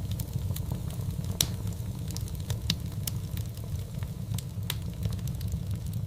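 Wood fire crackling in a fireplace: a steady low rumble of flames with irregular small pops and snaps, one sharper pop about a second and a half in.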